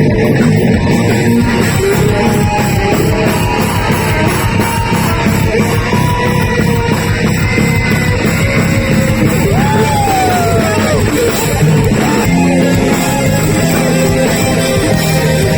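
Live heavy metal band playing loud, with distorted electric guitars over bass and drums; about ten seconds in, a lead guitar bends a note up and lets it fall.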